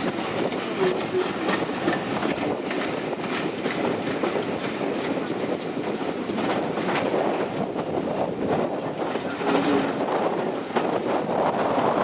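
Steam train's carriages running along the track: a steady rumble with frequent clicks of the wheels over the rail joints.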